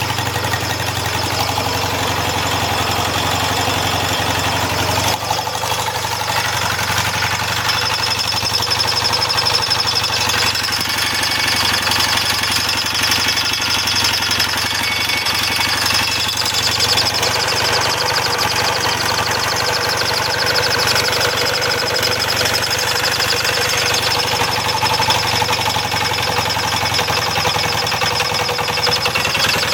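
1979 Yamaha XS650's air-cooled 650 cc parallel-twin engine running steadily.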